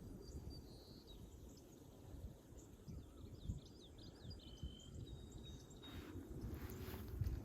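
Faint outdoor ambience: small birds chirping and whistling in short, scattered calls over a low rumble, with a brief rush of noise near the end.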